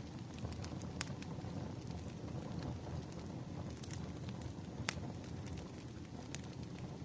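Wood fire crackling: a steady low rumble of burning logs with sharp, irregular pops and snaps, the loudest about a second in and near five seconds.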